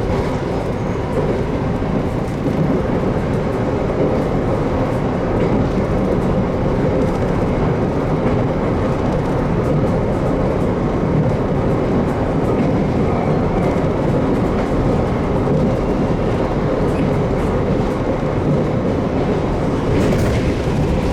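JR Kyushu 813 series electric multiple unit running between stations, heard from inside the passenger car: a steady rumble of wheels on rail and running gear.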